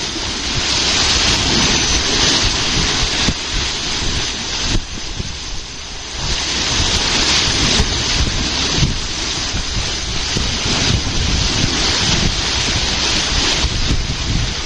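Gusting wind buffeting the microphone over the rush of water swirling in a canal lock chamber as its level evens out with the water outside. The hiss surges and eases every few seconds.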